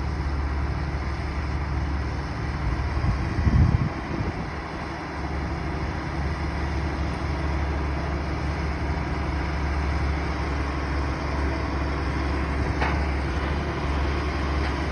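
Heavy diesel engine running steadily, with a brief low thump about three and a half seconds in.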